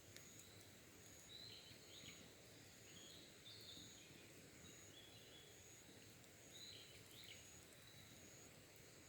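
Faint wild birdsong: short chirping phrases come four times, over a thin high note that repeats about once a second.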